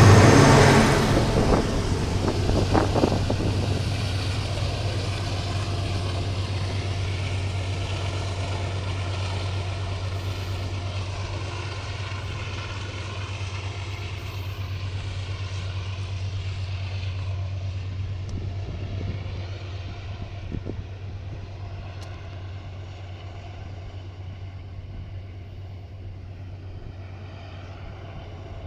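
Iron-ore freight train running over a viaduct, its diesel locomotive making a steady low drone. The sound is loud for the first couple of seconds, then fades slowly as the train moves away.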